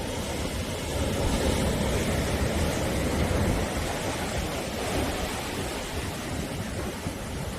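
Sea surf washing on the shore: a continuous rush of breaking waves that swells a little about a second in and again around five seconds.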